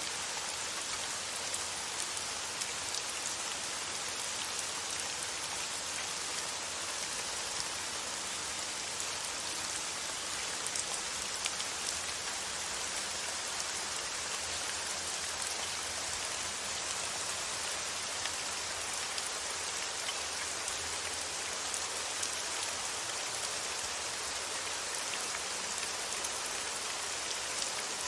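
Steady rain, a continuous even hiss with fine drops pattering on a surface throughout.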